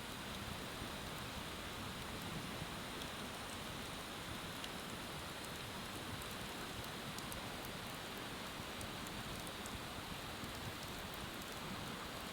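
Wood bonfire burning with sparse, faint small crackles over a steady rushing hiss of river water.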